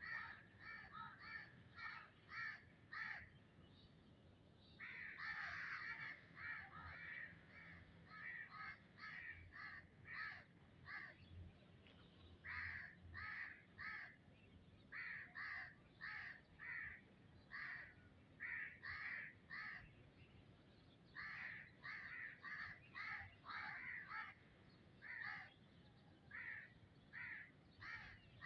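A bird calling over and over: short calls repeated two or three a second in runs, with brief pauses between the runs.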